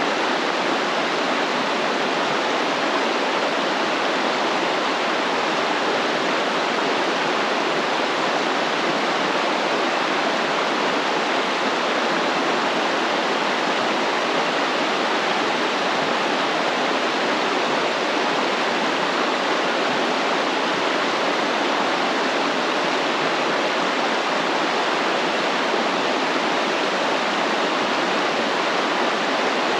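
Stream water flowing and rushing: a steady, unbroken hiss of running water.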